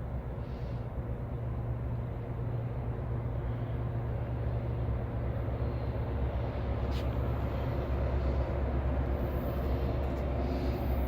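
Diesel locomotives on a Union Pacific freight train running with a steady low engine drone that grows gradually louder as the train approaches.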